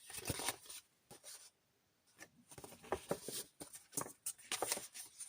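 Paper rustling with soft clicks and taps as the pages of a handmade paper journal are handled and turned.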